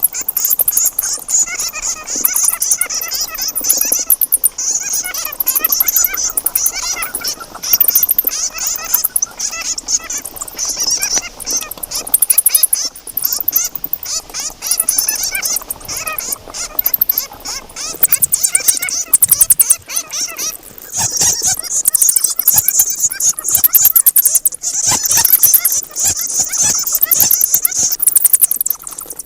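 A group of bats squeaking and chattering continuously, in rapid high-pitched trills and clicks.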